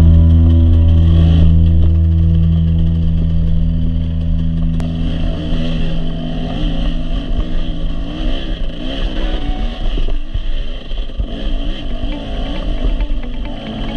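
Dirt bike engine being ridden, its pitch rising and falling over and over with the throttle. A steady, held music tone fades out over the first few seconds.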